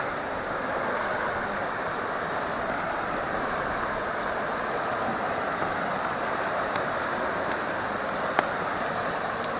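Steady rush of a swollen, fast-flowing river churning over rocks, an even hiss without pauses. One brief click about eight seconds in.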